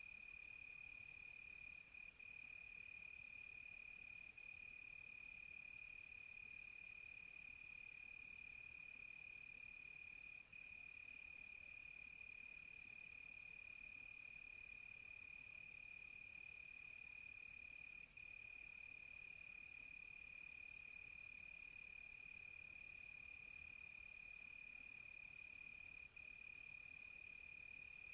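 Crickets chirping at night: one high, unbroken trill runs steadily throughout, while other insects add short repeated pulses and a fine buzz above it that fades in the middle and comes back near the end.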